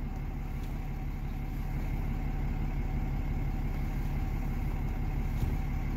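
Ram 3500's 6.7-litre Cummins turbo-diesel idling steadily, an even low hum heard from inside the cab.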